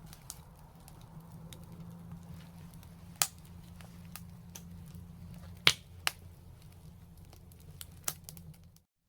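Open fire crackling, with irregular sharp pops over a low steady rumble; the loudest pop comes a little past halfway. The sound cuts out abruptly just before the end.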